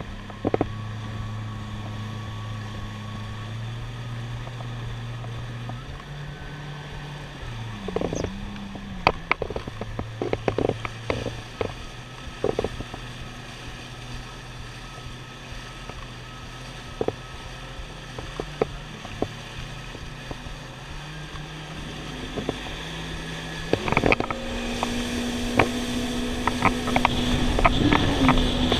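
Jet ski engine running at low speed, its note stepping up and down a few times, with scattered sharp knocks and splashes. About 24 seconds in it speeds up: the engine note jumps higher and water and wind noise grow louder.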